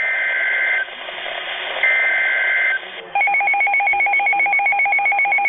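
Emergency Alert System SAME header: two roughly one-second bursts of warbling digital data tones, followed about three seconds in by a rapidly pulsing two-tone attention signal announcing a severe thunderstorm warning.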